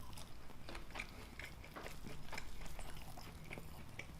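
Close-miked chewing of a mouthful of burger: a run of small, irregular wet mouth clicks and crunches.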